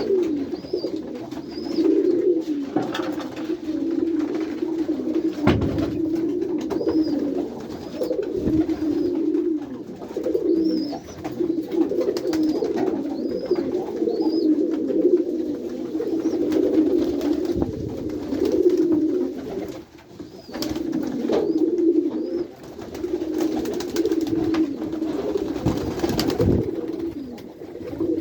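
Many domestic pigeons cooing together in a loft, a dense, wavering, overlapping hum that never stops. Occasional knocks and runs of faint high chirps come through it.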